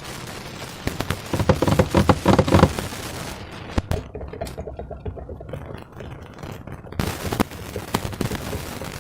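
Slime being squished and worked by hand, making wet crackling and sharp clicking pops. There is a dense run of crackles about a second in, a single sharp click near four seconds, and another cluster of clicks about seven seconds in.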